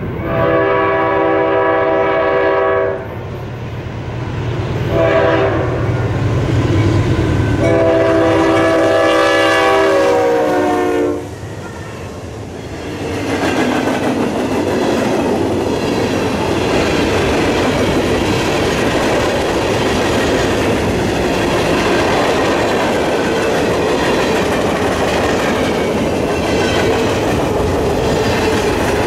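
Norfolk Southern diesel freight locomotive sounding its multi-tone air horn: a long blast, a short one, then a long one that drops in pitch near its end as the locomotive goes by. Then the freight cars roll past with a steady rumble and wheel clatter on the rails.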